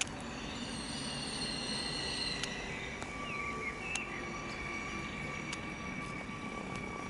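A train on the line with steady high-pitched squealing tones, one set dropping to a lower pitch about two and a half seconds in. A few short bird chirps sound over it.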